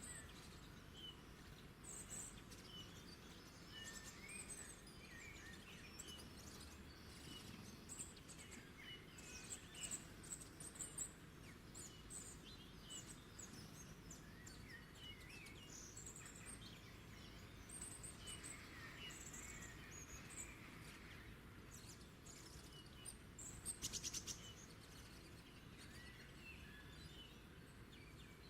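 Several small birds chirping and singing, faint, with many short calls overlapping against a steady low background noise. A rapid buzzy trill about three-quarters of the way through is the loudest call.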